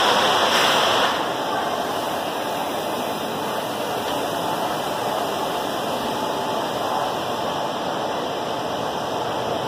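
Indian Railways passenger coaches rolling past at speed: a steady rushing noise of wheels on rails, a little louder for about the first second.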